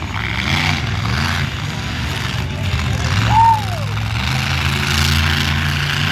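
Monster truck engines running at low revs, their pitch shifting slightly, with a short tone that rises and then falls about halfway through.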